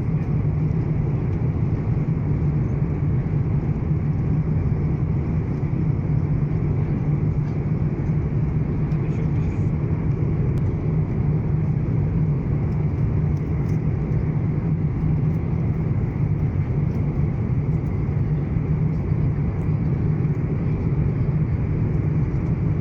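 Steady in-flight cabin noise of an Airbus A350-900 airliner: a low, even rushing drone of airflow and engines that does not change.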